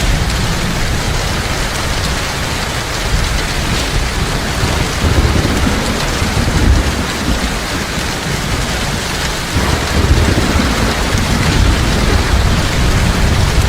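Heavy rain falling steadily in a dense, even hiss, with low thunder rumbling that swells up twice, about five seconds in and again around ten seconds in.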